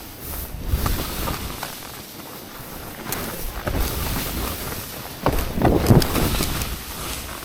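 Skis hissing and scraping through heavy snow in a run of turns, with wind buffeting the microphone; the snow noise swells with each turn, loudest about five and a half to six seconds in.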